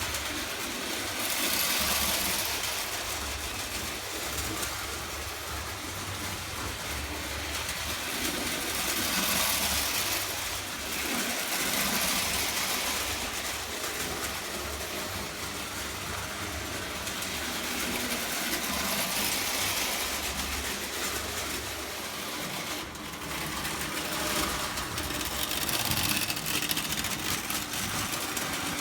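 O gauge electric toy train running on three-rail track: steady motor hum and wheels rolling on the rails, growing louder and fainter several times as it circles.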